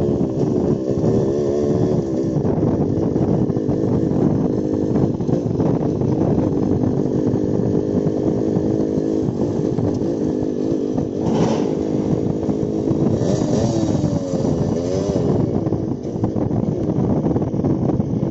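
Yamaha RX-135's single-cylinder two-stroke engine running while the motorcycle is ridden, a loud steady note whose pitch rises and falls with the throttle near the start and again about two thirds of the way through. A brief hiss comes in about 11 seconds in.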